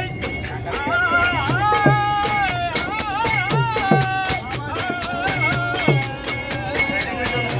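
Devotional bhajan sung by a voice with a wavering, ornamented melody. Hand cymbals clash in a steady beat, and a hand drum gives a bass stroke about once a second that drops in pitch.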